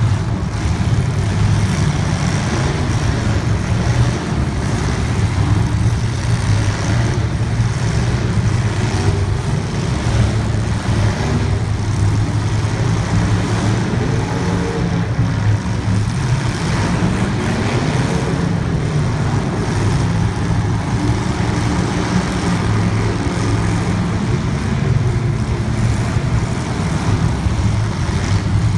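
Motor vehicle engine running steadily, a low drone with a slow rise and fall in pitch partway through.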